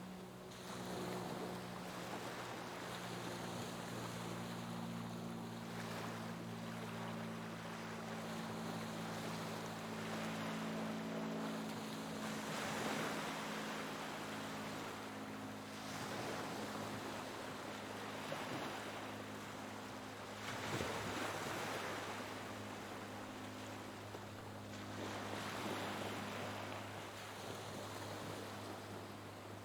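Sea waves washing ashore, the surf rising and falling in surges every few seconds, over a steady low hum.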